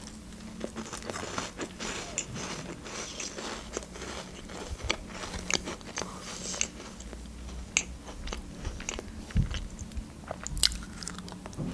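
Close-up crunching and chewing of a crisp cheese sandwich cracker, a rapid scatter of small crisp cracks as it is bitten and chewed.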